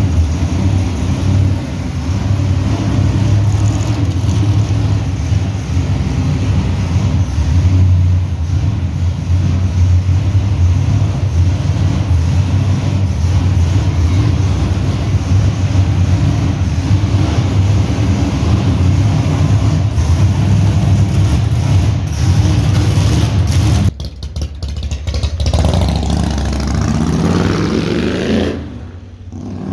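A motor vehicle engine running with a loud, deep, steady rumble. Near the end its pitch rises as it revs, then the sound briefly drops away.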